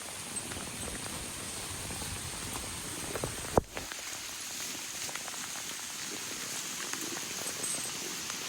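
Steady rain falling, an even hiss with scattered drop taps, and one sharp click about three and a half seconds in.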